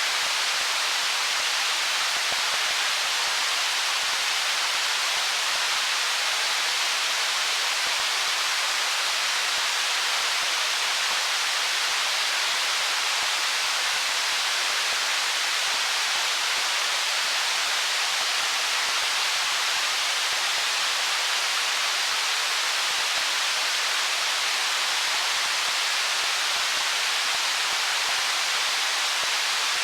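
Stream water running over stones: a steady, even rushing hiss with no distinct splashes or changes.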